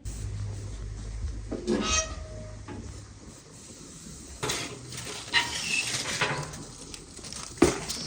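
A short call from a farm animal about two seconds in, over a low rumble, followed by a few sharp knocks and clatters, the loudest near the end.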